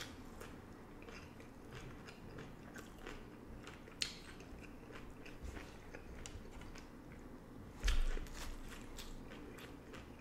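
Close-up chewing and crunching of crisp corn hard-shell beef tacos: a stream of small crackles, a sharp crunch about four seconds in and a louder crunch around eight seconds.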